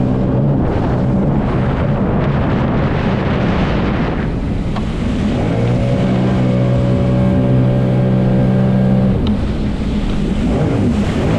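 Jet ski engine running at a steady pitch. A loud rushing noise over it covers much of the first half and returns briefly near the end.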